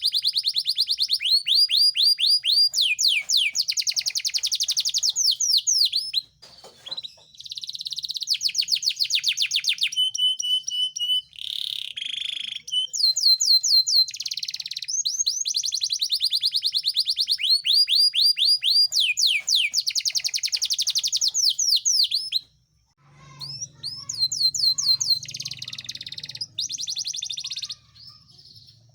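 Male Yorkshire canary singing at length: long phrases of fast, repeated trills and rolling notes, high-pitched, with brief pauses about six seconds in and again near twenty-three seconds.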